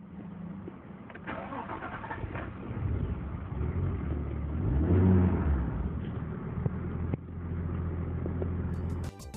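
Nissan Skyline ECR33's RB25DET turbo straight-six being started: the starter cranks for about two seconds, the engine catches, revs up and back down once about five seconds in, then settles to a steady idle.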